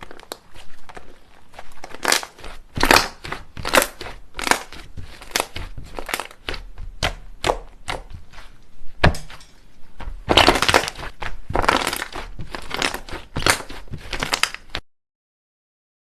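Slime being squeezed and pressed by hand, making a quick series of loud crunchy, crackling pops. The crackles come thickest a little past the middle and stop suddenly near the end.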